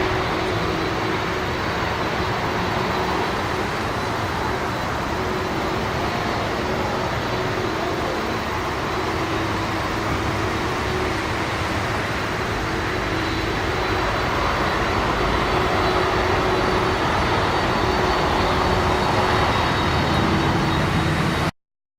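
Steady jet rumble from a Boeing 777-300ER's GE90 engines, growing a little louder late on and cutting off suddenly near the end.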